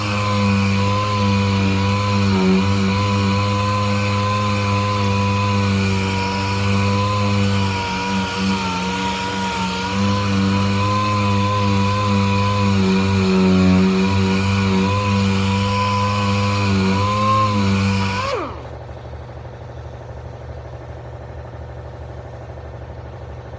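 A power tool running under load, its pitch dipping and recovering as it bites into the panel, used to strip undercoating and old coatings off a car's quarter panel. About eighteen seconds in it is switched off and winds down with a falling pitch, leaving a low steady hum.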